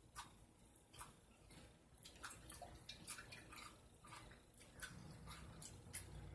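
Faint, irregular mouth clicks and smacks of someone chewing food between bites, over a low room hum.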